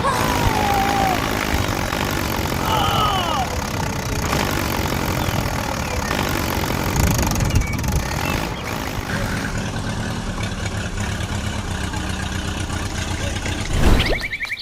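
An engine running steadily with a regular low pulsing. A few short gliding voice-like sounds come in the first three seconds, and a sudden loud burst near the end is followed by the sound cutting off.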